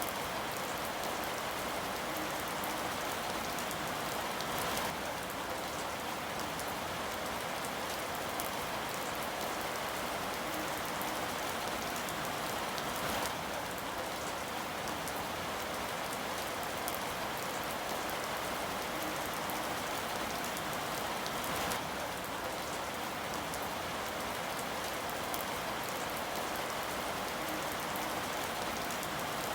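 Steady rain falling on a surface, an even hiss of dense drops with a few slightly louder drop taps now and then.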